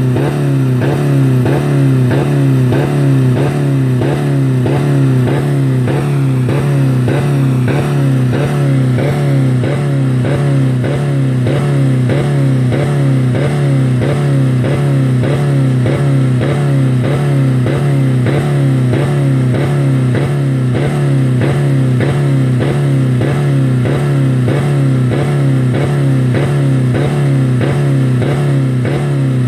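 A 2000 Dodge Neon's four-cylinder engine running flat out against the rev limiter at about 4000 rpm, with a steady drone and a rhythmic pulse about twice a second. The engine has no oil or coolant left in it and is being run until it fails.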